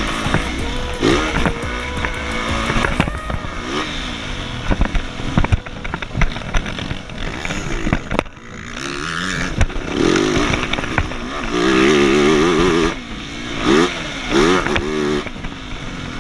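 Motocross motorcycle engine revving again and again, its pitch rising and falling with each blip of the throttle. The revs are held higher for a stretch past the middle.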